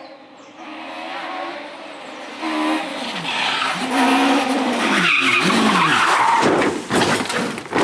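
Rally car engine revving hard, its pitch climbing and dropping again and again as it goes on and off the throttle and through the gears. It grows louder as the car approaches, runs loud for several seconds as it passes, then falls away near the end.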